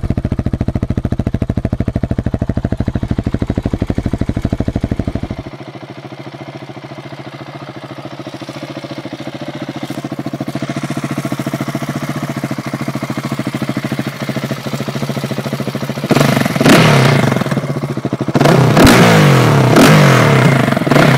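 KTM 690 SMC's single-cylinder engine idling with a rapid, even pulse, which drops suddenly to a quieter steady running about five seconds in. Near the end it is revved twice, the pitch rising and falling with each blip.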